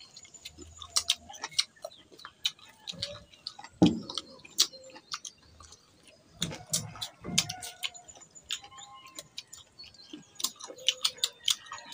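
Close-up chewing of crisp unripe mango: irregular wet clicks and crunches from mouths biting and chewing the slices, with a few short low hums or grunts.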